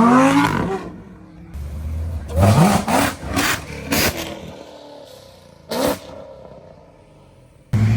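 Performance car engines revving and accelerating hard, the pitch climbing with each pull. Several sharp, loud cracks come in between, typical of exhaust pops and bangs. The sound changes abruptly twice as different cars come in.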